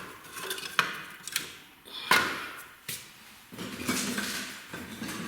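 Split firewood logs being laid into a fireplace firebox, knocking against each other with a few sharp wooden clunks, the loudest about two seconds in.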